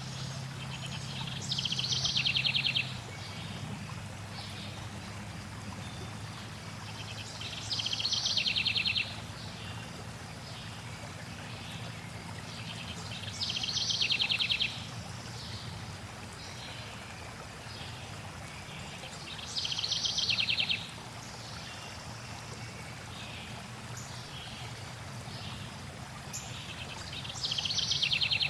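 A songbird repeating the same short, rapid trilled phrase five times, about every six seconds, over a steady low rush of flowing water.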